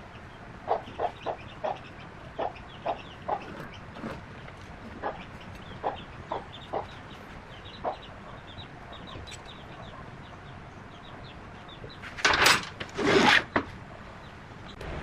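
Birds calling: a series of short, low clucks at uneven intervals with faint high chirps, then two loud, harsh calls near the end.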